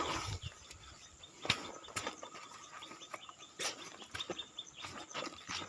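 Quiet forest ambience with scattered short clicks and rustles, the loudest about a second and a half in, and faint bird chirps.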